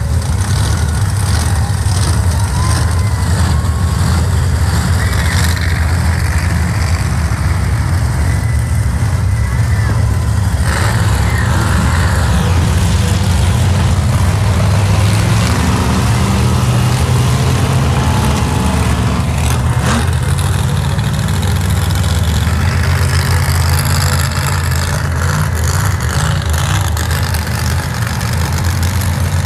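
Monster truck engines running loudly right after the start-your-engines call, a deep steady rumble whose pitch shifts up and down a little at times.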